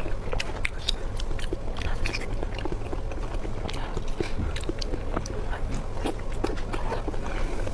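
A person chewing food close to the microphone, with many small irregular wet mouth clicks and smacks over a steady low hum.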